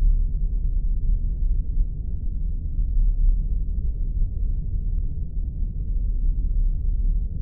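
Spaceship engine ambience sound effect: a steady, deep rumbling drone, all bass with nothing high in it.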